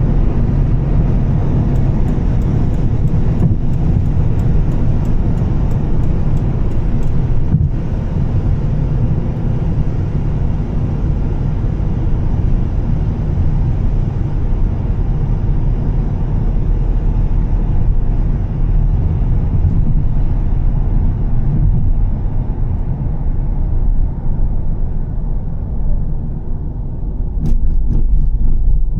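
A Volvo S60 T6's turbocharged straight-six and the road noise of the car on a wet road make a steady, loud low drone, with a haze of tyre hiss above it. For a few seconds near the start there is faint, regular ticking.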